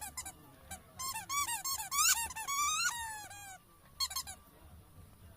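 Rubber squeaky ball being squeezed over and over in quick runs of high squeaks, some bending up or down in pitch, with a short last burst about four seconds in.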